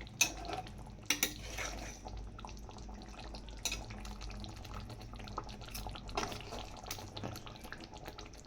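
Kitchen handling sounds: a few sharp light clinks and knocks, most of them in the first second or so and others around four, six and seven seconds in, over a faint steady background.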